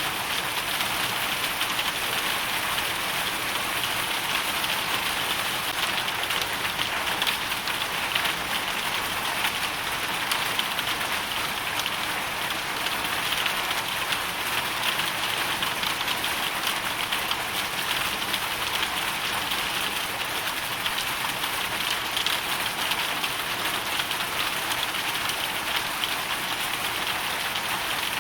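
Hailstorm: a dense, steady hiss of countless small hailstones and raindrops striking a surface, without a break.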